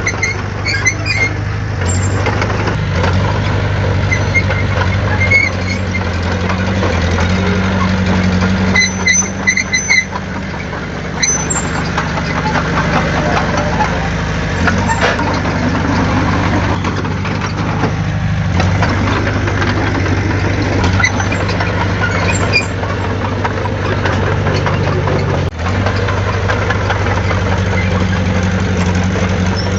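Heavy diesel engine of an earthmoving machine, a bulldozer or dump truck, running steadily. Brief high metallic squeaks and clinks come at a few points over it.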